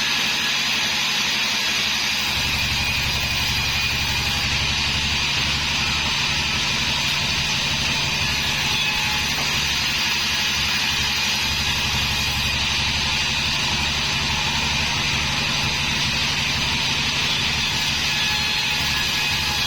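Homemade band sawmill running with a steady, unbroken machine noise; its low hum fills out about two seconds in.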